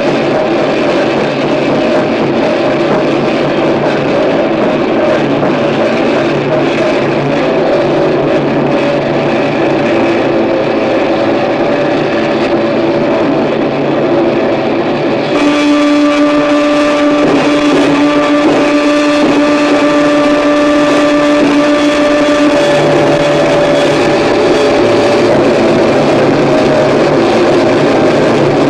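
Harsh noise music: a loud, dense wall of distorted noise with droning tones underneath. About halfway through it changes abruptly, turning brighter, and a steady pitched drone is held for several seconds before dropping back into the noise.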